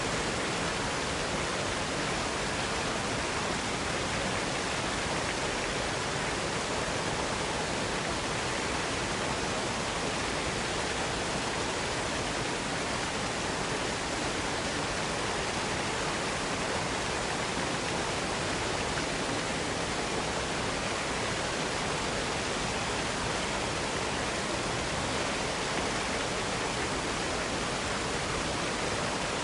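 Waterfall cascade: water falling and splashing in a steady, unbroken rush.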